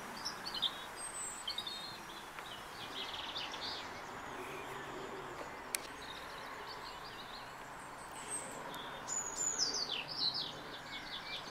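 Small songbirds singing and calling: scattered short chirps and trills, with a busier run of quick falling notes near the end, over a faint steady outdoor hiss.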